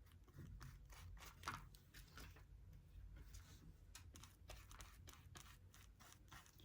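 Faint rustling and crackling of paper being handled and worked during a craft project, with scattered small ticks and one slightly louder crackle about a second and a half in.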